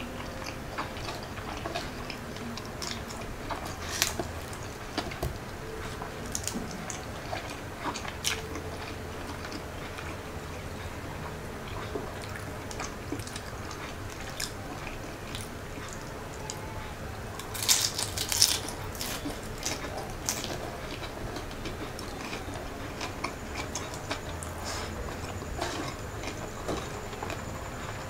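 Close-miked chewing and eating sounds of a man eating fried rice, siomai and fried lumpia shanghai by hand: wet mouth clicks and bites, scattered through, with a louder cluster of clicks about two-thirds of the way in.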